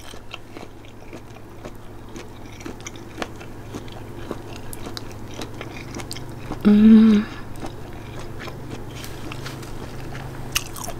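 A person chewing food close to the microphone, with many small wet mouth clicks. About seven seconds in comes a short hummed sound from the eater.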